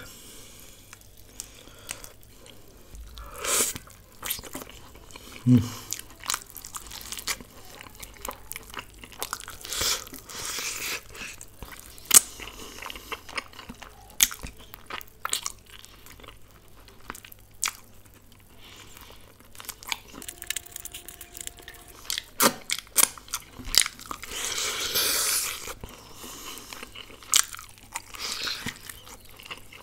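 A man biting and chewing sauce-coated chicken wings, with irregular clicks and short crackling bursts of chewing coming and going.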